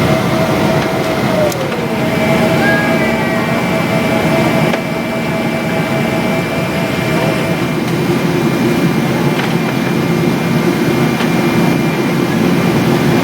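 Steady cabin noise inside a Boeing 777-200 airliner: a dense rumble of the jet engines and air-conditioning, with a few faint steady whines.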